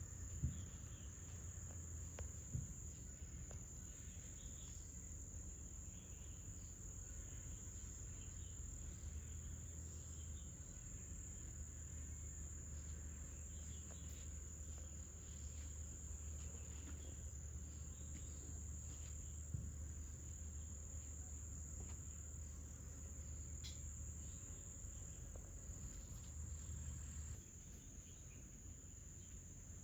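Crickets chirping in a steady high-pitched chorus, with a low hum underneath and a few faint knocks.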